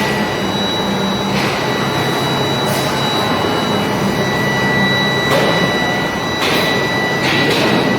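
Industrial machinery running steadily, with a high whine, a low hum that fades about halfway, and several short hissing bursts like air being let off.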